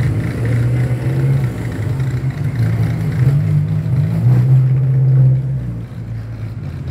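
Four-cylinder 2.0 engine of a Kadett GSI track car with a 4-into-1 header and no air filter, running at low revs as the car creeps along, a loud uneven rumble that swells about five seconds in and then eases off.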